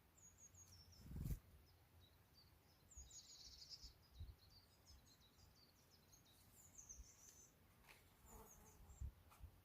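Faint, high-pitched bird chirps in quick runs of short notes, thickest about three seconds in. A low thump about a second in and another near the end.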